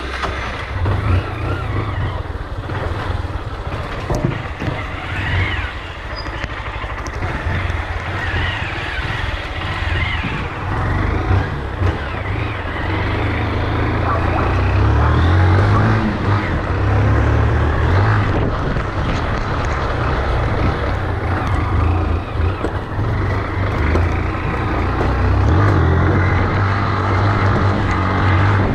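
Motorcycle on the move: a steady low engine and road rumble with a rushing noise over it, rising in level about halfway through.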